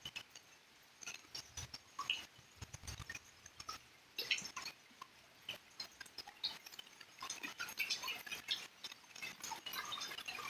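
Rain: irregular drips and taps of raindrops striking nearby surfaces, becoming denser over the last few seconds.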